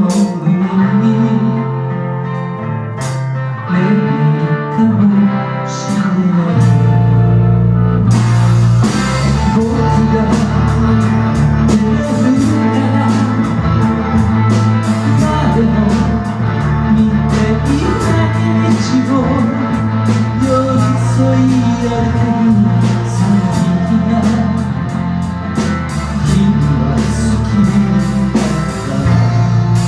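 Live band playing an instrumental passage with guitar and sustained chords. Bass enters about six seconds in, and the drum kit joins about two seconds later with a steady beat.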